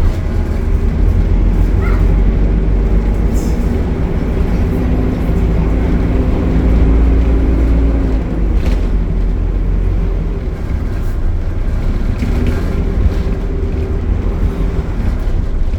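Optare Solo bus's engine and Allison automatic drivetrain running, a deep steady drone with a tone that climbs slightly about five seconds in and eases back down a few seconds later.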